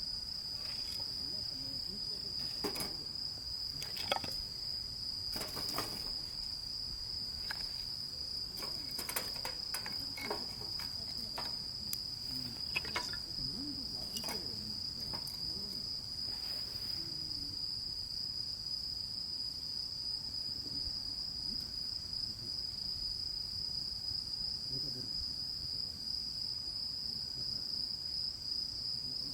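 Crickets trilling in a steady, high-pitched, unbroken chorus. Scattered clicks and knocks sound over about the first half, then stop.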